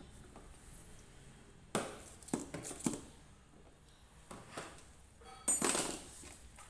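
Handling noises from work on the machine: several short knocks and clinks of metal parts or tools, then a louder, longer scrape or rustle about five and a half seconds in.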